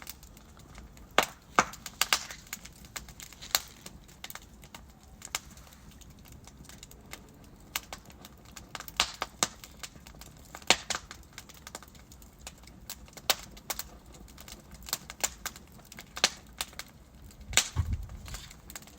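Burning logs crackling in a fireplace: irregular sharp pops and snaps over a soft, steady hiss, with a heavier, deeper pop near the end.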